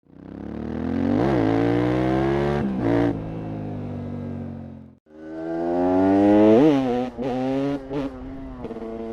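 Yamaha Ténéré 700's CP2 parallel-twin engine through an Akrapovič exhaust, revving and accelerating twice. Each run rises in pitch with a sharp rev peak, and there are several brief dips in pitch. The first run fades out at about five seconds before the second rises again.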